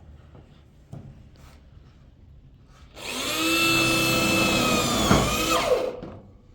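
A small motor runs for about three seconds, like a power tool or appliance switched on, then winds down in pitch as it is switched off. There is a sharp knock just before it stops.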